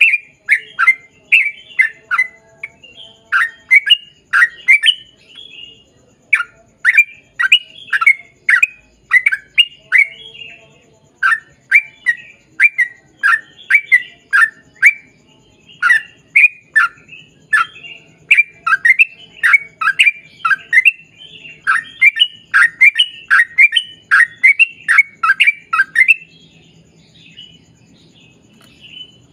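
Yellow-vented bulbul (trucukan) singing a long, fast run of short, loud chirps that sweep downward, two to three a second, with a couple of brief breaks; it falls quiet for the last few seconds.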